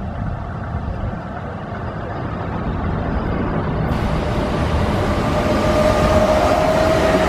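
Keihan 8000 series limited express train approaching at speed: a low rumble that grows steadily louder, with a steady high whine building over the last couple of seconds.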